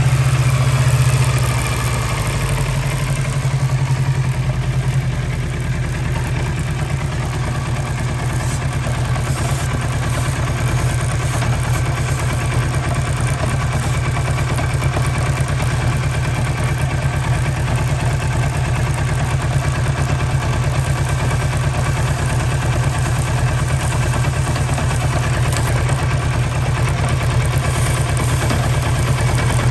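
Kawasaki Versys 650's parallel-twin engine idling steadily, a little louder for the first couple of seconds before settling.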